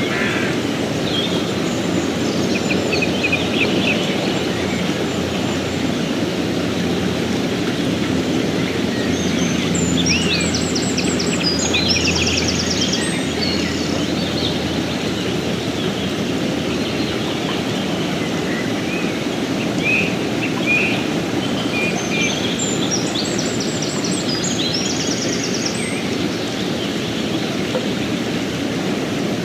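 A river's water rushing steadily, with small birds chirping over it; a quick high chirping phrase is heard twice, about ten seconds in and again near the end.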